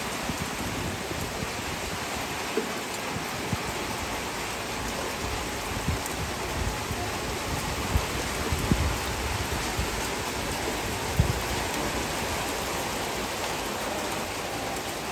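Steady rain falling on garden plants and surfaces, an even hiss with a few brief louder taps scattered through it.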